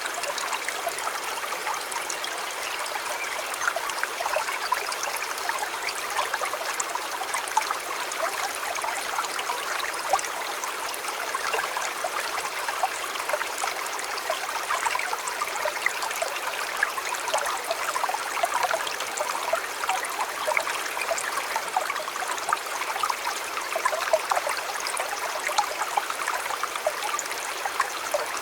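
A shallow river or stream flowing steadily, a continuous babble of water with many small splashes and trickles.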